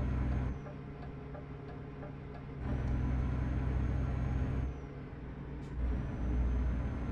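Truck engine heard from inside the cab, pulling steadily; its sound falls away twice, about half a second in and again near five seconds, each time picking up again after a second or two.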